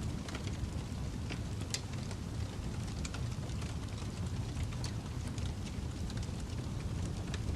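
Fireplace burning: a steady low rumble of flames with scattered sharp crackles and pops, a few each second.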